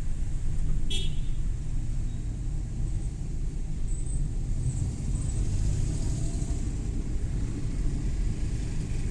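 Suzuki Every Wagon kei van driving, a steady low rumble of engine and road noise. One short sharp click about a second in.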